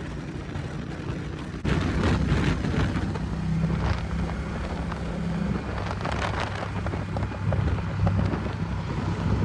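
Ducati Diavel motorcycle engine running under way, with wind rushing over the microphone; the engine gets louder about two seconds in as the throttle opens.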